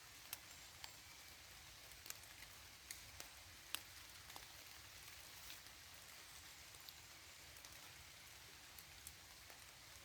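Light rain falling in a forest: a soft steady hiss with scattered sharp drips of single drops landing close by.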